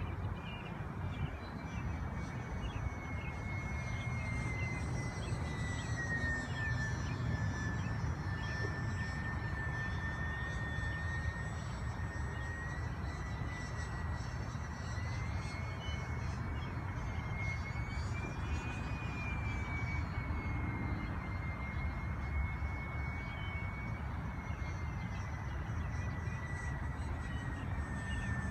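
Twin-engine radio-controlled model airplane flying, its motors and propellers giving a steady whine that slowly drifts down and back up in pitch as the plane changes speed and distance. A steady low rumble lies underneath.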